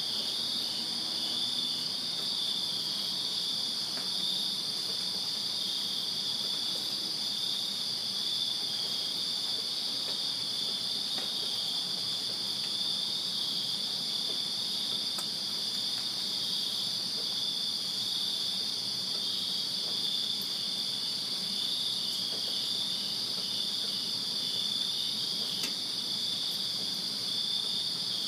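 A chorus of crickets chirping without a break on a summer night, a steady high-pitched trill with a faster pulsing note just beneath it.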